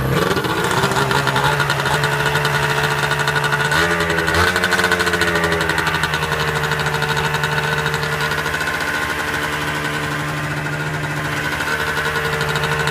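Yamaha R1-Z's two-stroke parallel-twin engine idling just after being started, its pitch settling in the first second. About four seconds in it is briefly blipped higher, then drops back to a steady idle.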